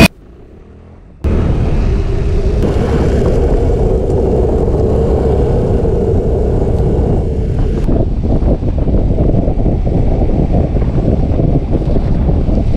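A vehicle engine running with a loud, low rumble that cuts in suddenly about a second in. A steady drone rides over the rumble and drops away a little past halfway, while the rumble carries on.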